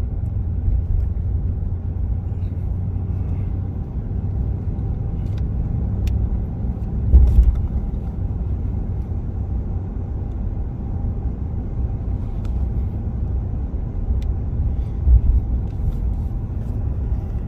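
A car driving, a steady low rumble of engine and road noise, swelling louder twice, about seven and fifteen seconds in.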